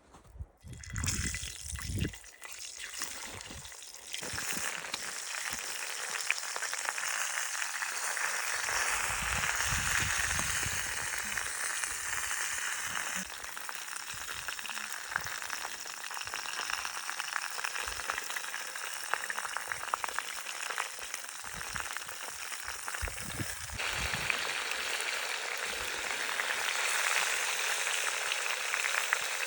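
Food frying in hot fat in a kazan over a campfire: a steady, dense sizzle with fine crackles that sets in about a second in, after a few low knocks.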